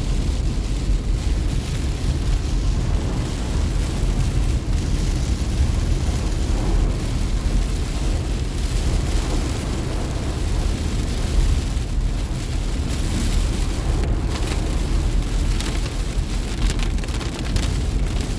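Steady low rumble of a car driving on a wet road in storm rain, heard from inside the cabin: tyre and road noise with a hiss of water.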